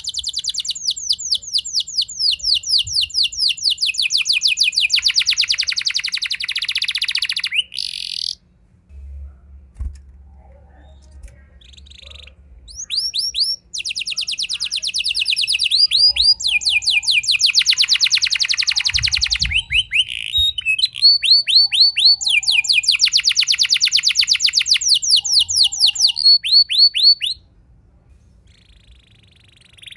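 Domestic canary singing long rolling trills: fast runs of repeated high notes in two long phrases, with a short pause of a few seconds between them.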